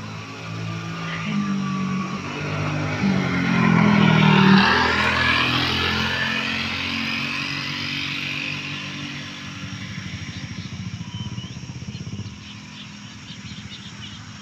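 Motorcycle engine running on a road, swelling to its loudest about four seconds in and then fading back to a steady hum.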